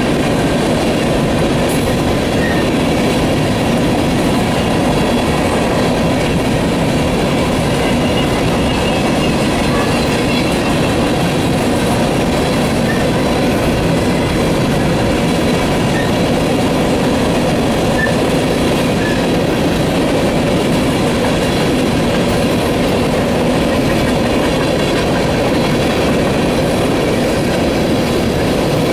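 Steel wheels of a freight train of aluminium coal gondola cars rolling past on the rails: a steady, loud rumble and clatter with faint, steady high tones above it.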